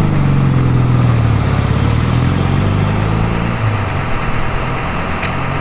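A vintage race car's engine running past with a steady low note that slowly fades.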